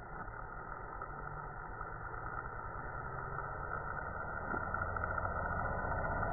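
An engine running steadily with a low pulsing, growing gradually louder.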